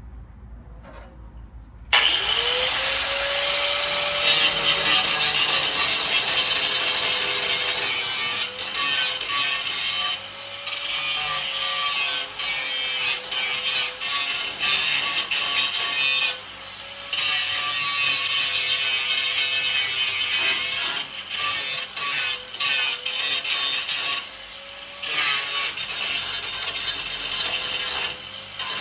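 Angle grinder starting about two seconds in with a rising whine, then grinding steel to clean it up for welding. Its pitch dips under load, and the noise breaks off briefly several times as the disc is lifted off the metal.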